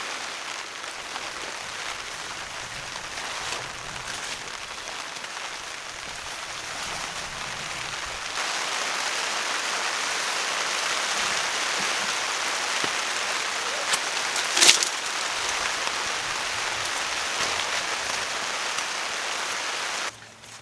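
Heavy rain falling steadily, growing louder about eight seconds in, with one sharp knock about two-thirds of the way through; the rain stops abruptly just before the end.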